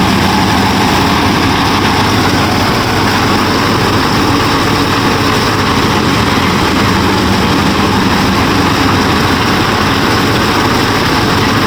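A DIY miniature combine harvester's motor running steadily with a low hum and a dense mechanical whirr.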